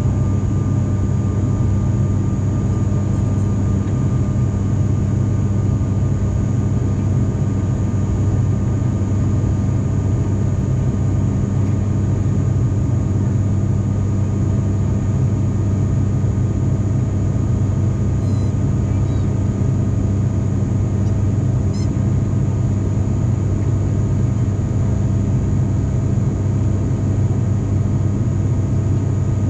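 Steady cabin drone of an ATR 42-500's turboprop engines and propellers in flight: a constant rumble with a strong low hum that does not change.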